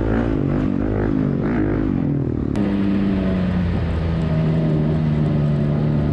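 Off-road vehicle engine revving up and down. After a sudden cut about two and a half seconds in, an engine runs at a steady pitch.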